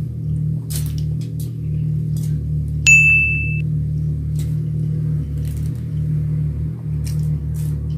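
Chewing and lip-smacking clicks over soft background music, with a short bright ding sound effect about three seconds in, the loudest sound here.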